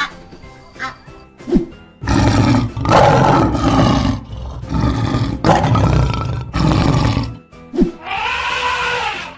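Lion roaring, a loud, rough roar in several long pulses starting about two seconds in and lasting about five seconds, over background music. Near the end a shorter pitched call rises and falls.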